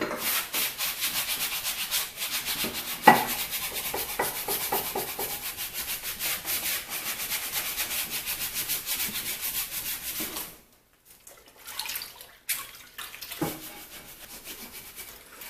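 Fast back-and-forth scrubbing with a rag on a grimy metal vise, wiping off grime with paint cleaner. The scrubbing stops abruptly about ten seconds in, and a few scattered short scrapes and knocks follow.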